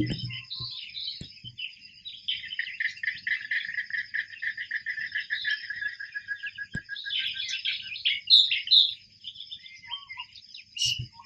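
Birds calling at dawn: a fast run of repeated, slightly falling notes from about two seconds in, then scattered chirps, over a steady high-pitched whine.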